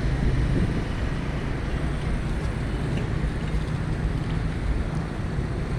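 Steady road traffic noise: a continuous low rumble of passing vehicles with no distinct events.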